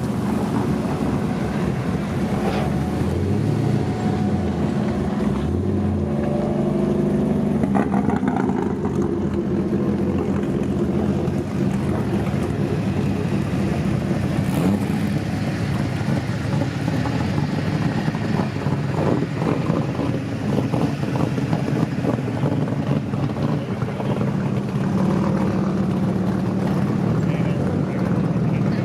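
Hill sprint race car engines running at a steady pitch, rising and falling a little near the start, with faint voices underneath.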